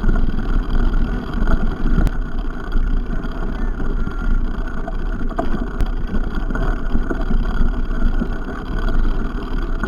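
Steady rumbling wind and rolling noise from a mountain bike being ridden along a trail, with two sharp clicks, about two seconds in and near six seconds.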